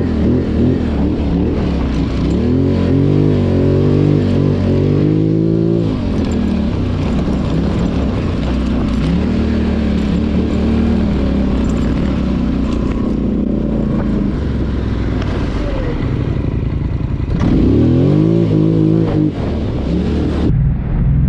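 ATV engine running under load, revving up twice with a rising pitch and holding a steadier speed in between.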